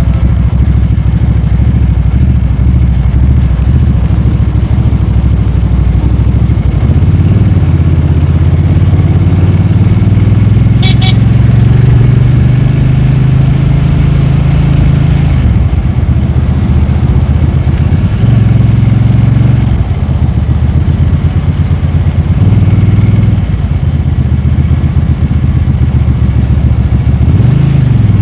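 Motorcycle engine running on the move, its pitch rising and falling as the throttle opens and closes through gear changes, with a brief high beep near the middle.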